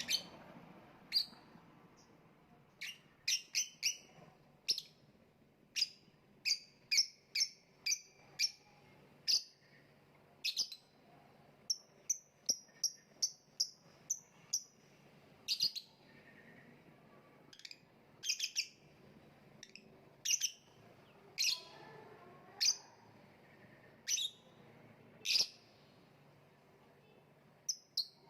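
Lovebird giving short, sharp chirps, one at a time or in quick runs of two or three, at an irregular pace.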